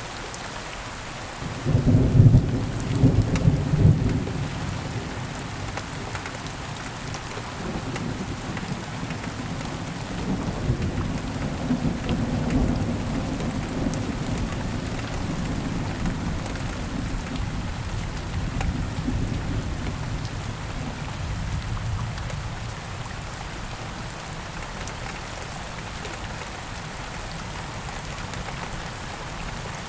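Steady rain with thunder: a loud crack and rumble about two seconds in, then a long, quieter rolling rumble that fades out a little past the middle, leaving only the rain.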